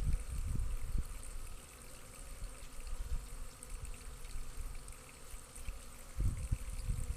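Honeybee colony humming as a faint, even rush from the opened hive. Low rumbles on the microphone come in the first second and again near the end.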